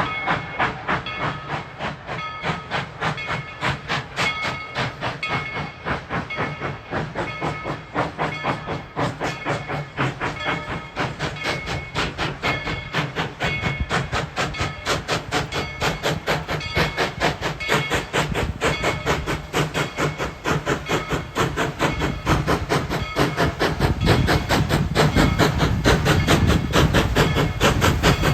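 Steam locomotive No. 190 pulling a train away, its exhaust chuffs quickening steadily as it gathers speed and growing louder toward the end, with steam hiss throughout.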